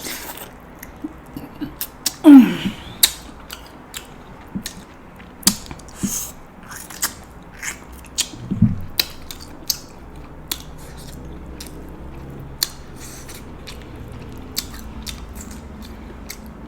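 Close-miked eating sounds: steamed king crab shell snapping and cracking in quick, irregular clicks as the meat is pulled out, with chewing and mouth sounds. A brief loud, falling-pitched sound comes about two seconds in. The clicks thin out in the second half.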